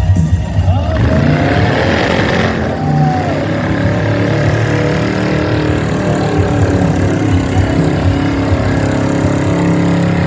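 A show car's engine running loudly and being revved, with a rushing burst about a second in.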